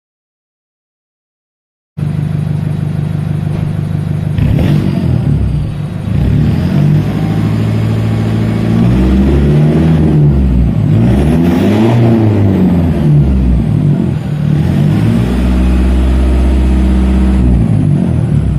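Toyota 1KD-FTV four-cylinder turbodiesel running with freshly purged injectors, revved up and back down several times. The engine comes in after about two seconds of silence.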